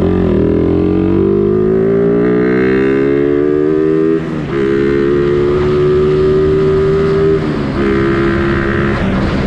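Suzuki Raider 150 Fi motorcycle's single-cylinder four-stroke engine under way. It rises in pitch for about four seconds, then holds a steady pitch, with two brief dips.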